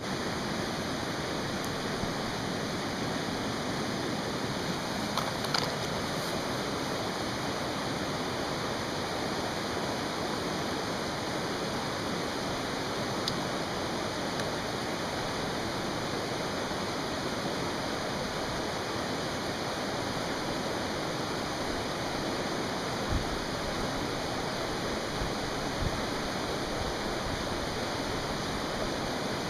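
Mountain stream rushing steadily, with a few faint pops from a campfire.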